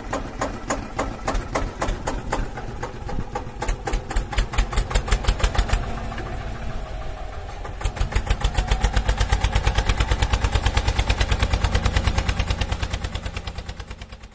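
Tractor-style engine chugging in a fast, even run of knocks, growing stronger about halfway through and fading away near the end.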